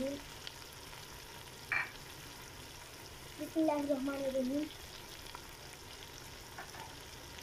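Onion-tomato masala frying in oil in a steel pot, a steady sizzle as ground spices are added. A short sharp click about 1.7 seconds in, and a brief pitched sound about halfway through.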